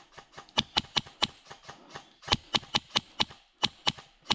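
Airsoft replica firing quick single shots, sharp clicks about five a second, in three short strings with brief pauses between them.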